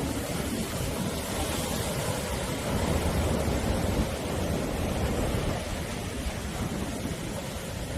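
Sea waves breaking and washing on the shore, a continuous deep rushing surf that swells a little in the middle.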